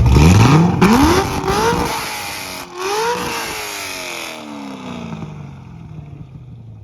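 Car engine revved twice in quick succession, its pitch climbing sharply each time, then falling slowly as the revs drop back toward idle.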